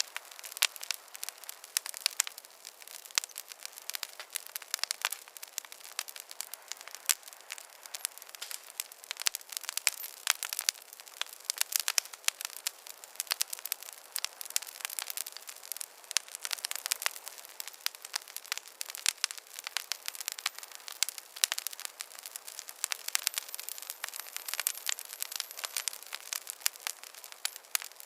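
Wood fire crackling in a fireplace: many irregular sharp pops and snaps over a soft hiss.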